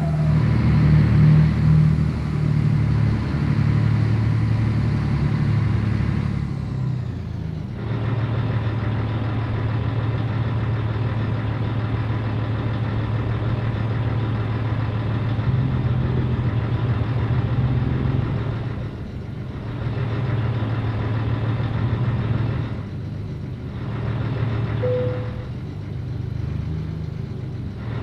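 Scania 113 truck's diesel engine running steadily, with brief drops in level several times.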